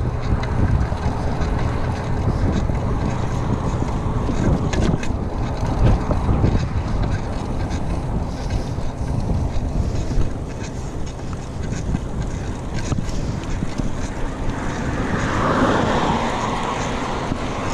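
Wind buffeting the microphone over the rumble and rattle of a full-suspension mountain bike in motion, its rear swing arm and coil shock loud, with scattered clicks and knocks. A broad whoosh swells and fades near the end.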